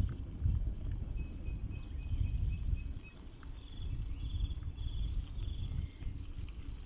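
Insect chirping in an even, high-pitched pulse about five times a second, over an irregular low rumble.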